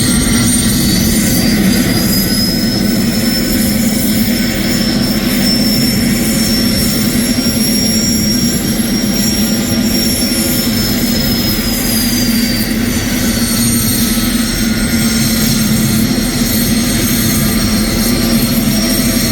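GTD-350 turboshaft engine of a homemade helicopter running steadily, with a high turbine whine over a low hum. The whine rises slightly in pitch a few seconds in, holds, and eases back down about two-thirds of the way through.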